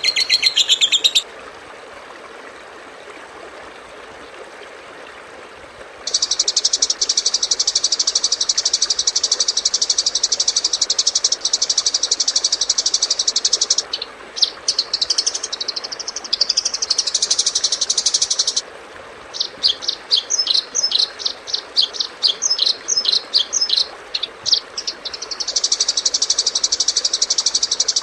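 Masteran recording of bird and insect calls for training songbirds. A high, continuous buzzing trill plays from about six seconds in. Varied chirps and then quick repeated high notes follow, and the buzzing trill returns near the end, over a steady hiss.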